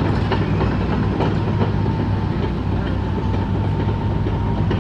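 Tractor engine running steadily with a low hum and a busy, irregular clatter of knocks.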